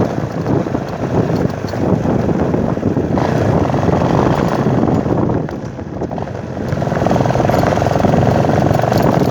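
Motorcycle engine running while riding, with wind rushing over the microphone. The sound eases off briefly a little past halfway, then comes back up.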